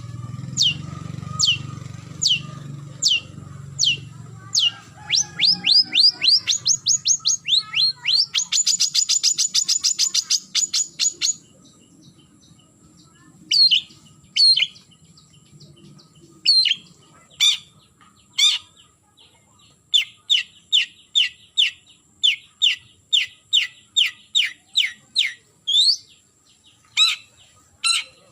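Long-tailed shrike (cendet) giving sharp, downward-sweeping calls, the challenge calling used to draw in a rival. The calls come about one every half second, quicken into a rapid run, break off, then resume at about two a second. A low hum sits under the first several seconds.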